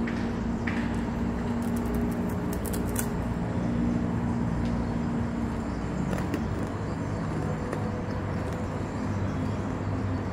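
Crunching bites and chewing of a puffed-rice crisp bar with pumpkin seeds and cashews, with a few sharp crunches in the first three seconds, over a steady low drone.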